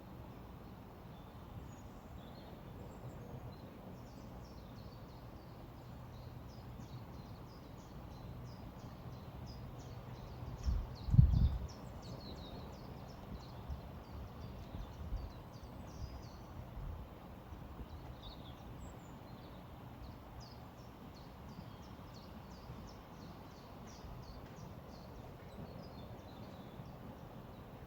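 Small birds chirping in quick, high notes over the steady low rush of a flowing river, with one brief low thump about eleven seconds in.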